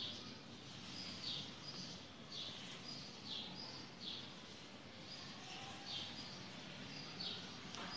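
A small bird chirping over and over: short, high chirps that fall in pitch, about one or two a second, over a faint background hiss.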